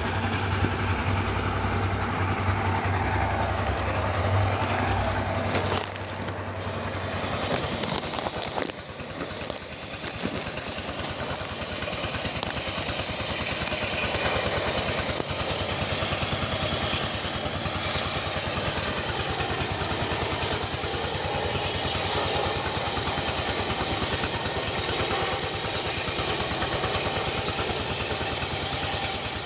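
A small engine running steadily, its note changing about six seconds in.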